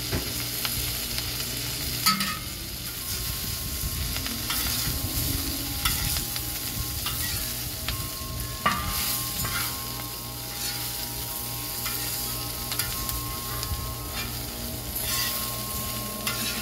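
Shredded cabbage sizzling on a hot plow-disk discada over charcoal while a long-handled metal spatula stirs it, scraping and clicking against the steel. Wind chimes ring in the background, several long tones struck now and then from about three seconds in.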